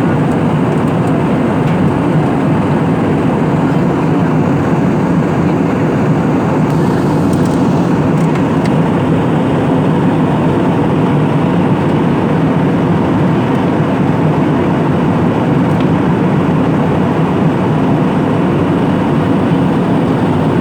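Steady airliner cabin noise in flight: the even, low drone of the engines and the airflow over the fuselage, unchanging throughout.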